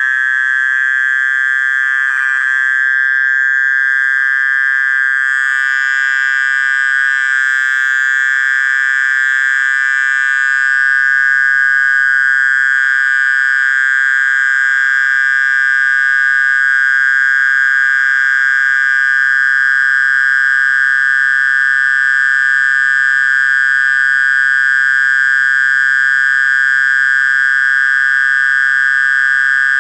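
Mole cricket (orong-orong) calling: one steady, unbroken high-pitched trill. In the countryside this call is taken as the sign that it is still dusk (maghrib).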